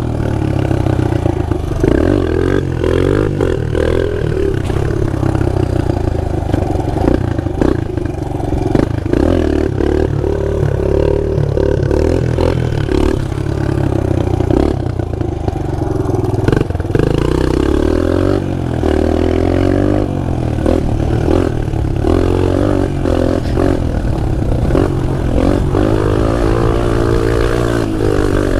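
Pit bike engine running under a rider, revving up and falling back again and again, with rattles and knocks throughout.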